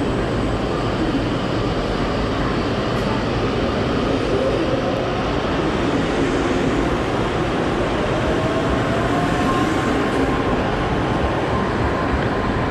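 Tokaido/Sanyo Shinkansen Nozomi train pulling out past the platform: a loud, steady running noise of the cars rolling by. A faint whine rises slowly in pitch about halfway through as the train gathers speed.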